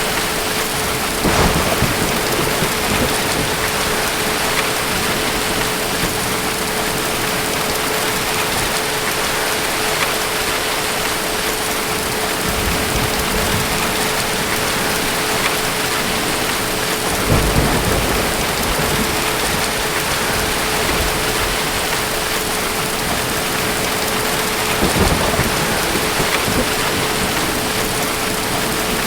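Steady heavy rain with three brief low thunder rumbles: one about a second in, one near the middle, and one near the end.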